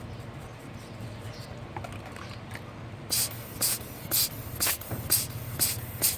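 Quick hissing spurts, about two a second, starting about three seconds in, over a steady low hum.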